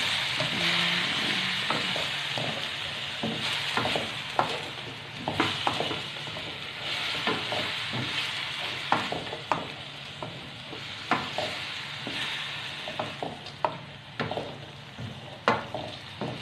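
Bean sprouts, tofu and onion frying with a steady sizzle in a black nonstick pan, broken by irregular clicks and scrapes of a spatula stirring them. The sizzle slowly dies down over the stretch.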